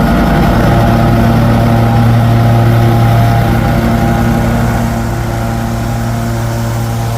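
Engine running steadily at a constant speed, getting a little quieter about five seconds in.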